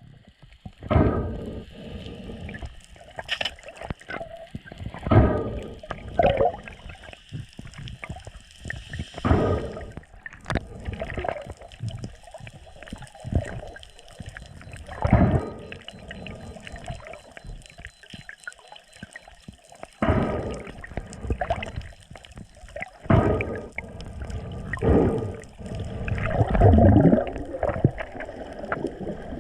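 Water gurgling and sloshing, heard in the water, in irregular surges every two to five seconds.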